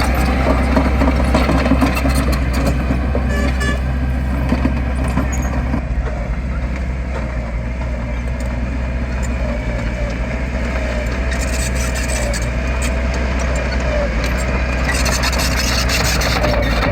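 Diesel engine of heavy earthmoving machinery running steadily with a low drone, with a wavering higher whine over it.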